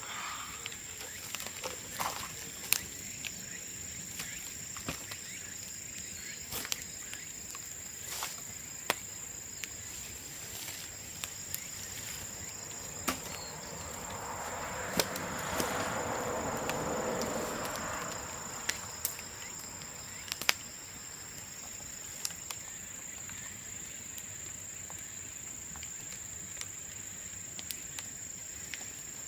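Burning bamboo crackling, with sharp irregular pops scattered throughout. A broad rushing hiss swells and fades midway. A steady high insect trill runs underneath.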